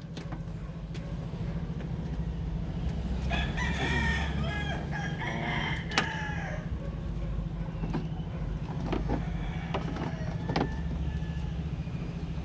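A rooster crowing about three seconds in, over a steady low mechanical hum, with a few sharp clicks and knocks.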